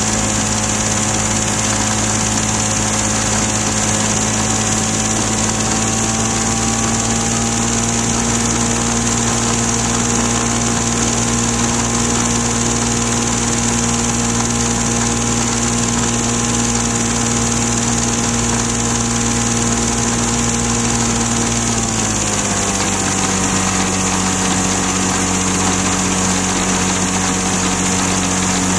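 Flightstar II light-sport aircraft's engine running at a steady speed. About three-quarters of the way through, the engine speed drops to a lower pitch, then starts to climb again near the end.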